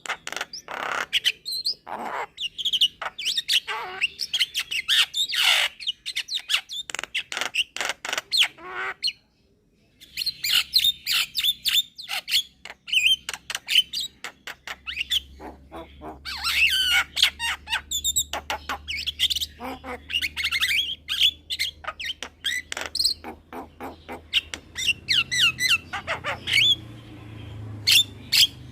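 Young Javan myna chattering in fast runs of clicks, squawks and whistled notes. It breaks off for about a second after nine seconds, then carries on. A faint low hum sits under the second half.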